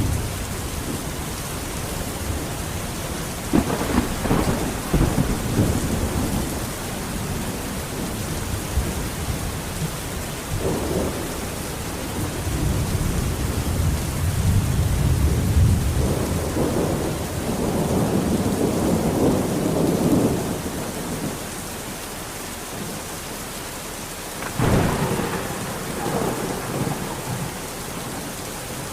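Steady heavy rain with thunder rumbling again and again through it. A sharper thunderclap breaks near the end and rolls away over a couple of seconds.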